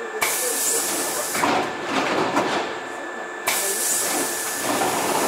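Hankyu 5300 series electric train running in the subway, heard from inside. A loud hiss cuts in suddenly just after the start, drops back after about a second to a duller running noise with scattered clicks, then cuts in again about three and a half seconds in.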